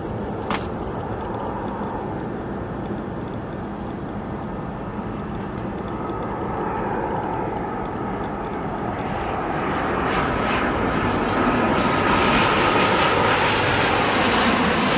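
Aircraft engines at an airport, a steady rushing noise that grows louder as the plane comes closer, with a steady whine in the middle of it. A single sharp click sounds about half a second in.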